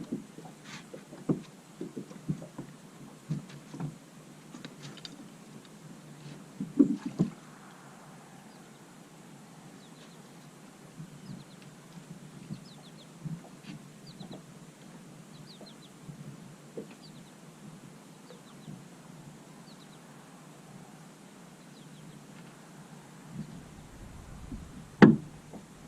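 Irregular knocks and clunks against the boat as a freshly landed muskie is handled and unhooked, loudest about seven seconds in. A quieter stretch follows with faint high chirps, and there is one loud thump near the end.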